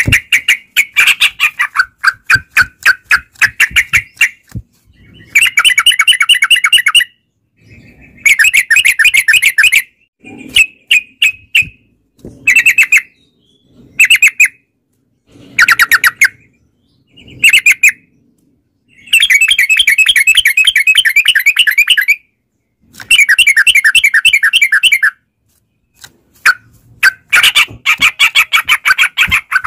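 Yellow-vented bulbuls (trucukan) singing loudly. Repeated phrases of rapid, bubbly chattering notes last about one to three seconds each, with short pauses and scattered single notes between them.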